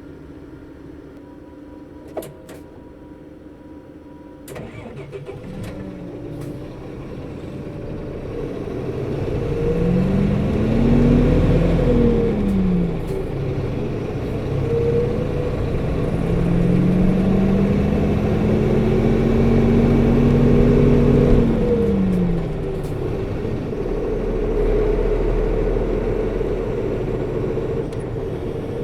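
Bus diesel engine restarting after an idle-stop about four seconds in, then pulling away. The engine note rises and falls twice as the bus accelerates. Its coupling cooling fan runs throughout, louder than usual for the engine speed.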